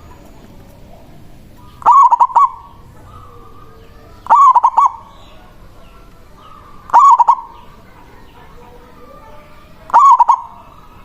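Zebra dove (perkutut) cooing its song: four loud, short phrases of quick rolling notes, one every two and a half to three seconds.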